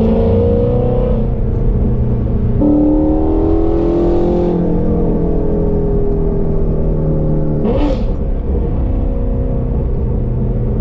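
2017 Ford Shelby GT350's 5.2-litre flat-plane-crank V8 running through Kooks long-tube headers and exhaust under acceleration. The pitch climbs, changes abruptly at a gear change about two and a half seconds in, and climbs again. It then holds a steady drone, with a brief shift near the end that leaves it running lower.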